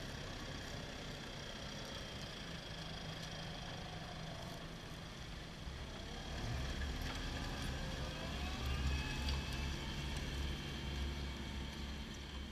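Fendt 312 Vario tractor engine running under ploughing load. It grows louder and deeper about halfway through, with faint whines that slide up and down in pitch.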